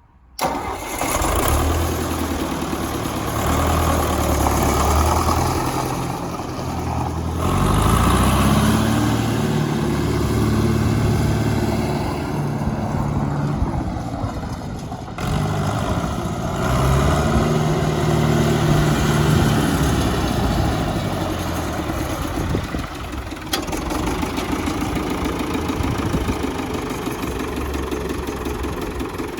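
Ford 641 Workmaster four-cylinder diesel tractor engine running. The revs rise and fall back twice, then settle to a steady run.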